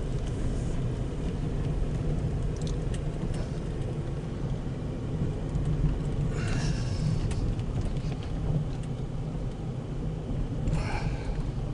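Car engine and road noise heard from inside the cabin while driving: a steady low rumble, with two brief higher-pitched noises about six and eleven seconds in.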